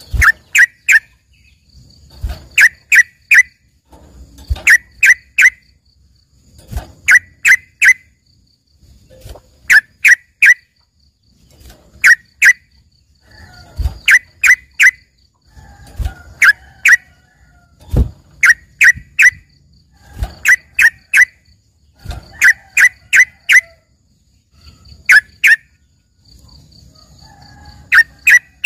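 Yellow-vented bulbul (trucukan) singing a trained "isian" song said to resemble a greater green leafbird's. The song comes in loud, short phrases of three or four sharp whistled notes, repeated about every two seconds. A faint high trill sounds between the phrases, and low thuds fall under several of them.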